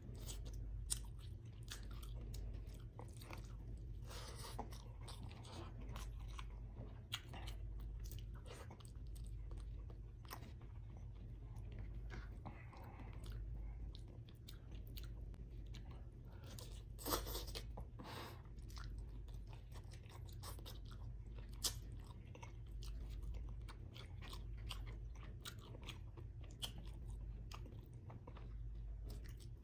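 Close-miked chewing of salmon head paksiw and rice eaten by hand, with many short wet mouth clicks and smacks. A steady low hum runs underneath.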